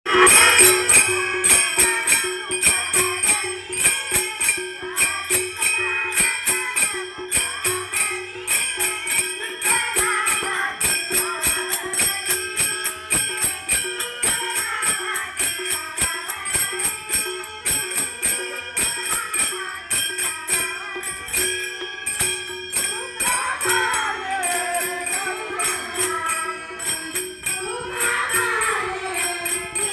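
Women's bhajan group performing a devotional song: jingling hand percussion keeps a fast, steady beat over a held drone tone, with the women's singing voices coming through more strongly near the end.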